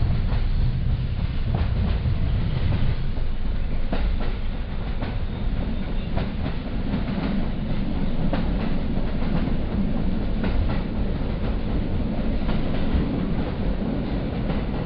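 Interior of a PKP passenger coach running along the track: a steady low rolling rumble from the wheels and bogies, with scattered knocks as the wheels cross rail joints.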